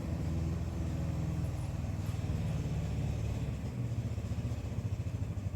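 A steady low mechanical hum, like an engine running, with a fast pulsing beat.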